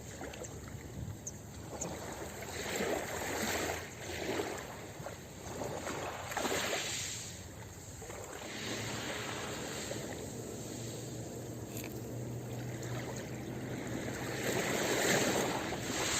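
Ocean surf breaking and washing up a beach, the rush of water swelling and falling away every few seconds.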